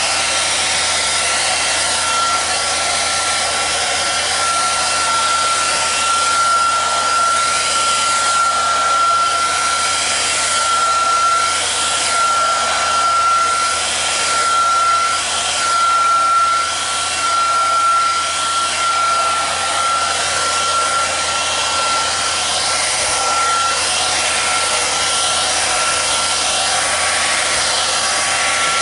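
Hair dryer running steadily to blow thinned acrylic paint across a pour-painting canvas. Its airy rush carries a high whine that wavers in and out.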